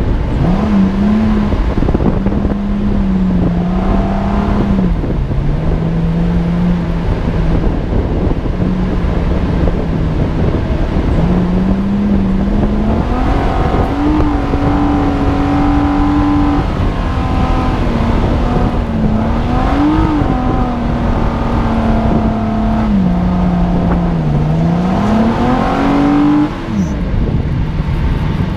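Nissan Xterra's engine pulling hard through soft sand, its note stepping and gliding up and down with gear changes and throttle and rising to its highest about halfway through, over heavy wind noise on the microphone.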